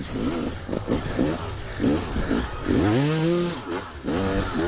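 Dirt bike engines revving hard, the pitch rising and dropping again and again as the bikes are ridden on, with one bike revving up strongly about three seconds in.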